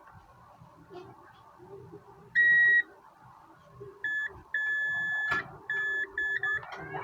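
Multimeter continuity beeper sounding: one loud, steady, high beep, then a run of broken beeps at a slightly lower pitch, short ones and one long one, as the probes make and lose contact. The beeping signals continuity across the tested points on the hard disk board, which looks like a short.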